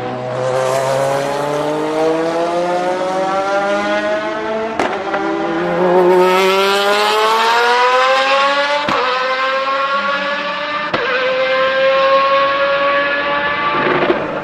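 Lamborghini Murciélago R-SV GT1 race car's V12 accelerating hard, its pitch climbing through the gears, with three upshifts, each marked by a sharp crack and a drop in pitch.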